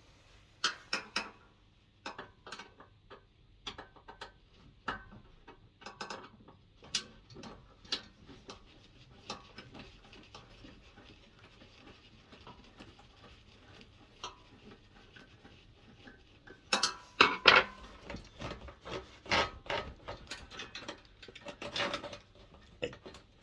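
Metal clinks and knocks of hand tools and small parts being handled while a diesel heater is stripped down, as its bolts and air pipe are undone. A busier run of louder clatter comes about three quarters of the way through.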